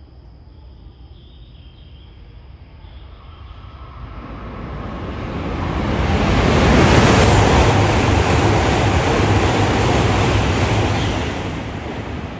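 E5 series Shinkansen passing through the station at speed without stopping: a rush of air and running noise builds over a few seconds, holds loud for about five seconds, then begins to fade.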